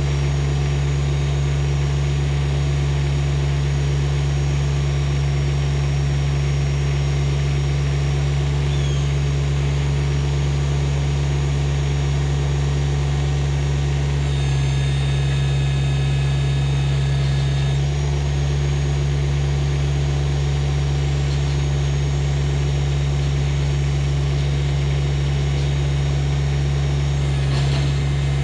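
Compact tractor's small diesel engine running steadily, with a higher whine joining for a few seconds about halfway through.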